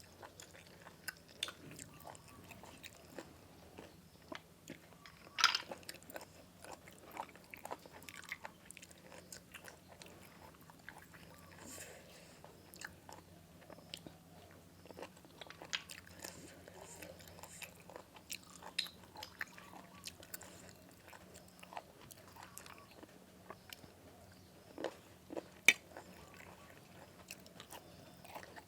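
A person chewing and crunching food: scattered short crunches and mouth clicks, one sharper crunch about five seconds in and another near the end, over a faint steady low hum.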